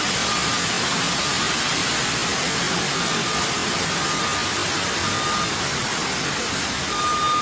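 Steady loud hissing noise, with short high electronic beeps repeating at irregular intervals of about a second.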